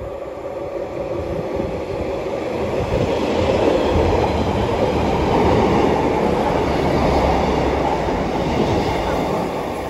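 A Class 143 Pacer diesel multiple unit passing through the station without stopping. The rumble of the engine and wheels builds, is loudest in the middle, and fades near the end.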